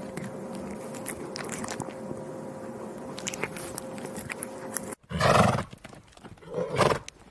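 A steady hum with scattered clicks, then, after a sudden cut, two loud calls from a large animal, each about half a second long and about a second and a half apart.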